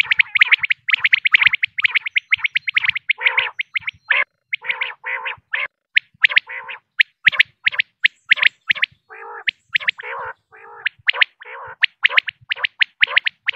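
Female common quail calling: a rapid run of short, sharp chirps, with lower, rougher notes mixed in through the middle.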